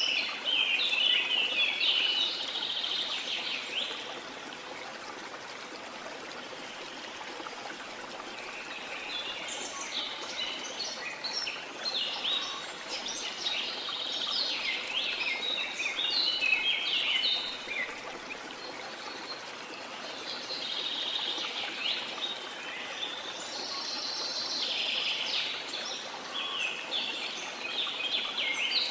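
Steady rush of a waterfall with rainforest birds calling and chirping over it in several busy spells, near the start, in the middle and near the end.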